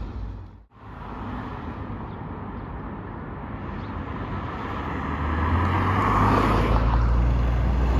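Road traffic noise that drops out briefly under a second in. Then a truck's engine grows steadily louder as it approaches.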